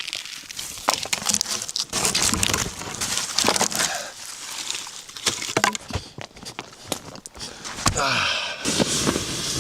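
Irregular rustling and crinkling with scattered sharp clicks, like material or gear being handled close by.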